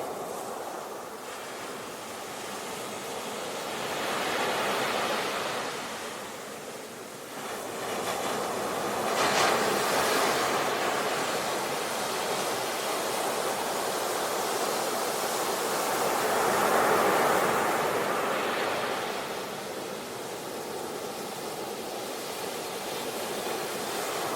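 Ocean waves breaking on a shore, the surf swelling and ebbing in slow surges several seconds apart.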